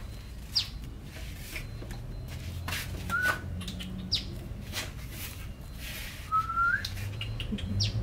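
Small cage birds calling in an aviary: three sharp, high chirps spaced a few seconds apart and two short rising whistles, over a low steady hum.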